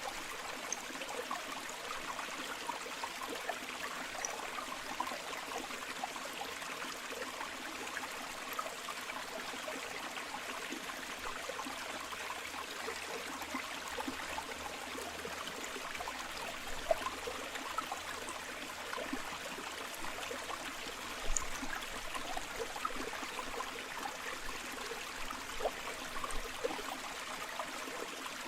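River water flowing steadily over stones: a continuous rushing and babbling with small gurgles and splashes.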